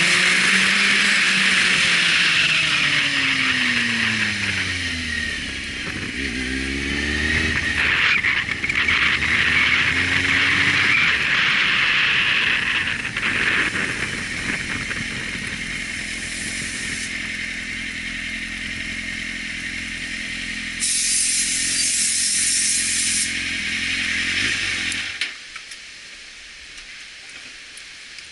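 Kawasaki motorcycle engine running as the bike slows, its revs falling, then rising briefly and settling to a steady low-speed run. The engine stops about three seconds before the end.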